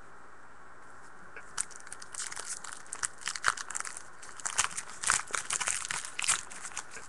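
Trading-card pack wrapper crinkling and tearing as a pack is opened, in an irregular run of crackles that starts about a second in and stops near the end.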